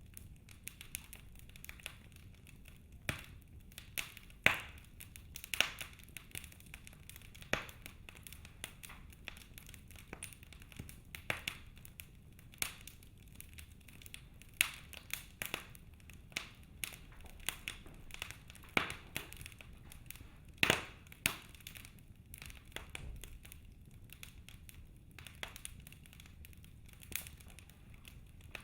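Wood fire burning in a fireplace, crackling with irregular sharp pops about a second apart over a faint low rumble.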